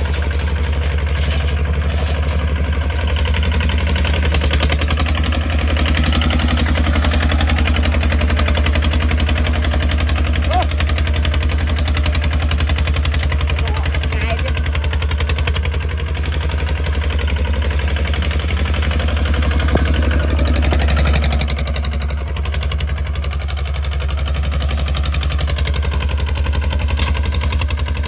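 Kubota RT155 walking tractor's single-cylinder diesel engine running with a rapid, even chugging; its note changes slightly about twenty-one seconds in.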